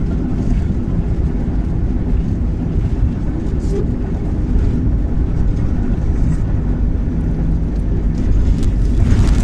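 MAZ-103 city bus under way, heard from inside the cabin: a steady engine and drivetrain drone with road rumble, and a short louder rush of noise near the end.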